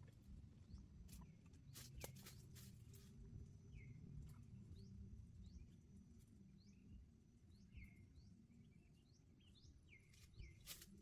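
Faint bird chirps, many short quick notes, over a low steady outdoor rumble, with a few soft clicks or taps in the first three seconds.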